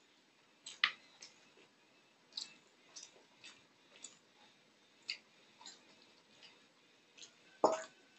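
Eating sounds: irregular soft wet clicks and smacks of chewing, with louder ones about a second in and near the end.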